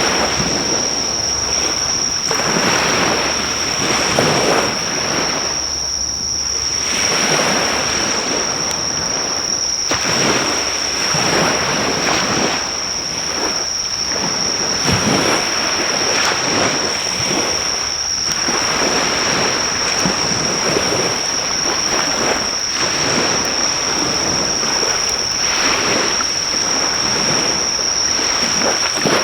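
Waves surging and breaking on a shore in slow swells every few seconds, with a steady high-pitched drone of loud insects and the faint crackle of a driftwood campfire.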